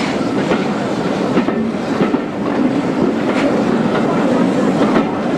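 Train running along the track, heard from on board a coach: a steady rumble with the wheels clicking over rail joints at irregular intervals.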